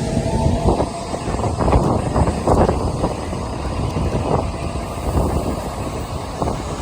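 Shinkansen bullet train moving through the station: a loud, steady low rumble with a faint tone and a series of sharp knocks in the first few seconds.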